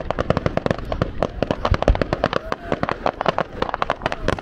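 Fireworks display: a dense, irregular run of sharp cracks and pops, around ten a second, with no let-up.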